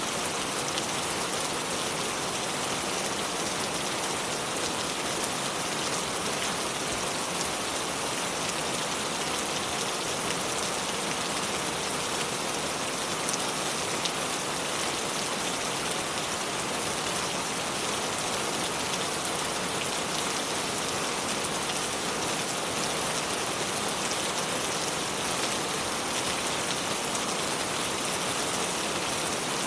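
Continuous water noise, a steady even hiss with a bright top and no single events standing out.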